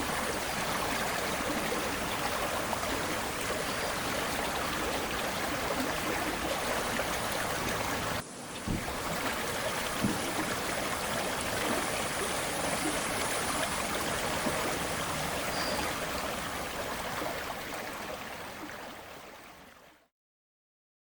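Aare river water flowing steadily, with a brief break about eight seconds in, then fading out to silence near the end.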